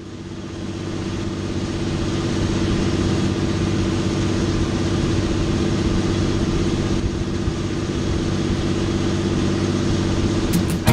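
Engine running steadily, with a low, even hum. It fades in over the first second or two.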